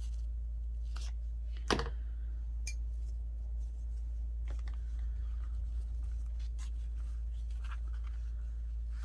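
Paper craft materials being handled on a desk: scattered soft rustles and small clicks, with one sharper click a little under two seconds in, over a steady low hum.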